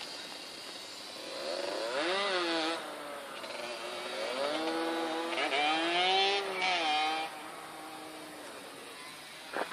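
Motor of a homemade radio-controlled Mustang model plane, its pitch rising and falling in two swells, the second longer and loudest around six seconds in.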